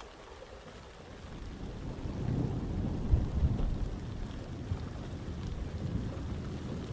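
Thunder rumbling low over steady rain, building about a second in, strongest around the middle and then slowly dying away.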